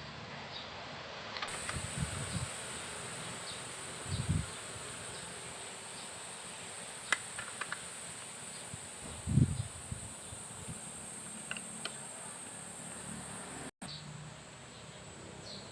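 A steady high-pitched insect drone over a faint hiss, with a few light clicks and three dull knocks.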